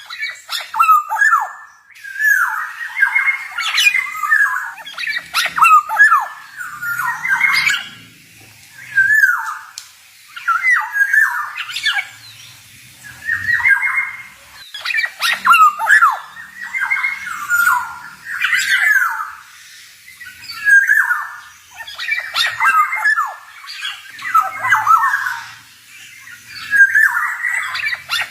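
Male black-naped oriole (kepodang) singing. Phrases of quick, rasping notes are mixed with short gliding whistles, and a new phrase starts about every one and a half to two seconds.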